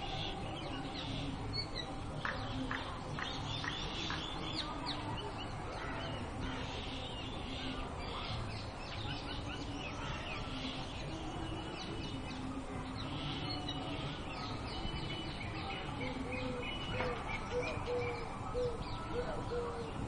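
Garden birds chirping and calling over a steady background hum, many short high chirps throughout. In the last few seconds a lower note repeats about two or three times a second.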